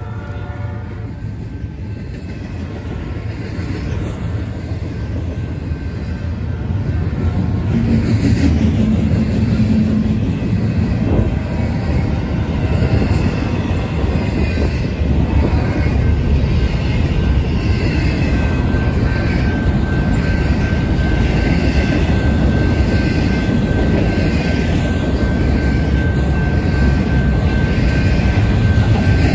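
Double-stacked intermodal container cars of a freight train rolling past, a steady heavy rumble of steel wheels on rail that grows louder over the first several seconds. A thin, steady high whine joins about two-thirds of the way through.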